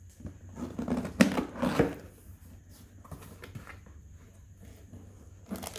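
Handling noise from unpacking a mixer grinder's parts and packaging: a cluster of knocks and rustles in the first two seconds, the sharpest about a second in, then a few faint clicks.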